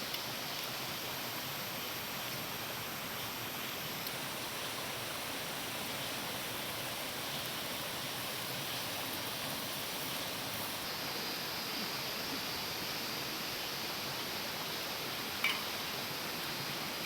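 Steady, even rushing noise like running water, with one brief faint sound near the end.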